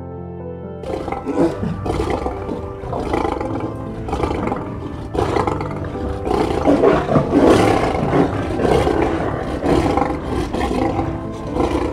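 Lion growling in rough, repeated pulses from about a second in, over soft background music.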